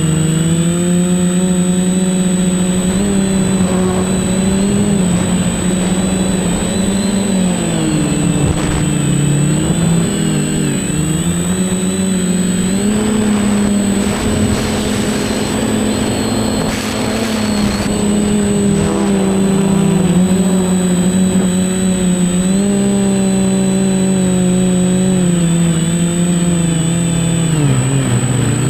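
Quadcopter's electric motors and propellers buzzing in flight, the pitch rising and falling as the throttle changes, with a thin steady high-pitched whine above it.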